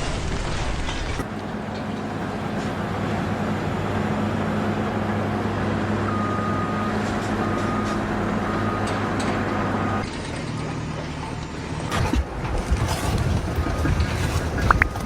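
Heavy machine engine running steadily. Midway a high beeping alarm repeats about once a second for several seconds, and near the end there are scattered knocks and clatter.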